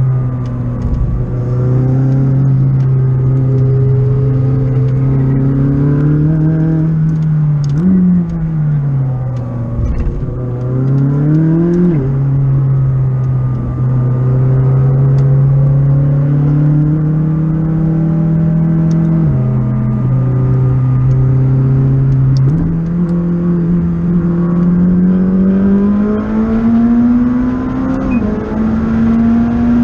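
McLaren 600LT's twin-turbo V8, heard inside the cabin while driven on track. Its note mostly holds or climbs slowly under load. About a quarter of the way in it dips and jumps several times in quick succession, typical of gear changes and throttle blips, and near the end it rises steadily again.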